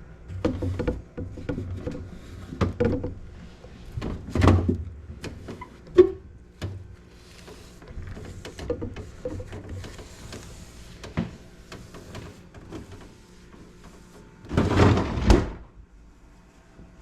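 Refrigerator shelves and drawers being handled and wiped during cleaning: scattered knocks, clunks and rubbing, with a louder clatter lasting about a second near the end.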